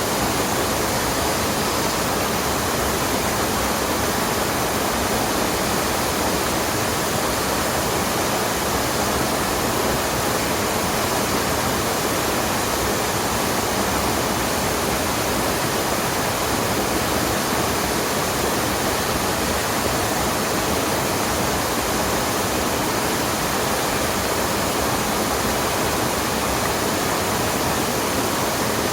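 Mountain stream water rushing steadily, a dense unbroken roar like a small waterfall.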